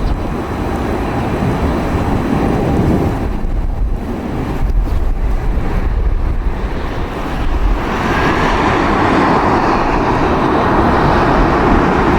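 Jet airliner noise mixed with strong wind rumbling on the microphone, swelling louder in the second half as aircraft noise builds.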